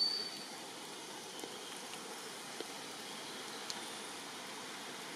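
Steady rain falling, an even hiss, with a brief high-pitched chirp right at the start and a few faint ticks.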